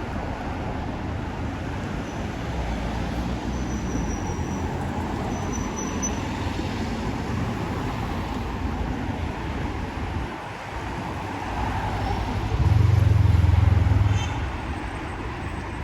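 Road traffic noise heard from a moving motorbike, steady throughout, with a louder low rumble lasting about a second and a half near the end.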